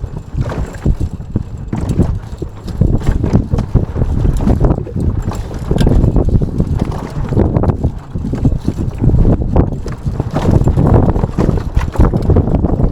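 Strong wind buffeting the microphone in surges on a small sailboat under way, with water noise against the hull and scattered short knocks.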